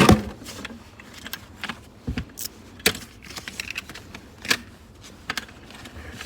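A loud knock right at the start, then scattered, irregular sharp clicks and clinks of small hard objects.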